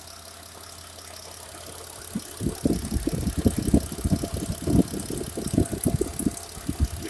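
Petrol Mitsubishi Pajero IV engine idling evenly once warmed up, with no squeak from its newly replaced timing belt. About two seconds in, a run of irregular low thumps starts and becomes the loudest sound.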